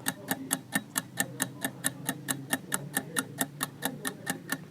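Clock-ticking countdown sound effect: an even run of sharp ticks, about four a second, timing the pause for the viewer to answer the quiz question.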